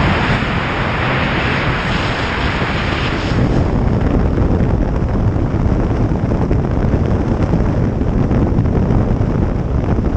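Wind rushing and buffeting over the microphone of a moving motorcycle, with low road and engine rumble underneath. About three seconds in, the hiss turns duller and the low rumble grows louder.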